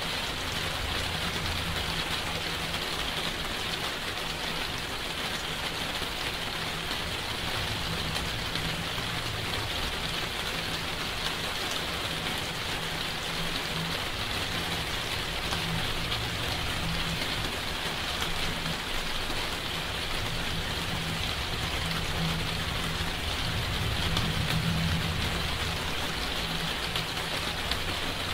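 Steady rain falling: an even, unbroken hiss, with a low rumble underneath that swells slightly near the end.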